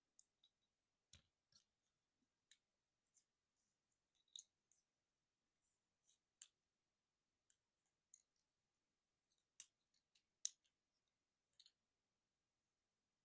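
Plastic parts of a Transformers Deluxe Class Swerve action figure clicking and snapping as it is transformed from truck to robot mode: faint, scattered clicks at irregular intervals, the sharpest about ten seconds in.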